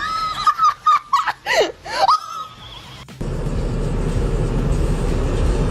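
A person laughing in high-pitched, broken bursts, cut off suddenly about three seconds in by a loud, steady rumbling noise.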